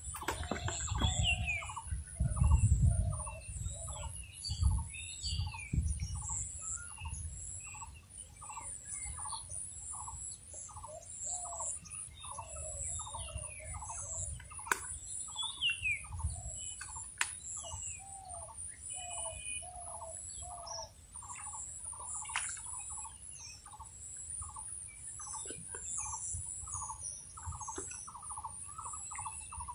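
Birds calling: one bird repeats a short call about twice a second, with scattered higher chirps from others. A low rumble comes and goes over the first few seconds.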